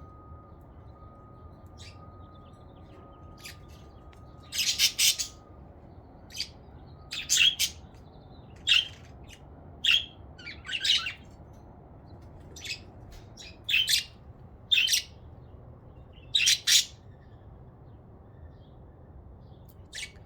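Pet budgerigars calling: about a dozen short, loud, high chirps and squawks, scattered a second or two apart.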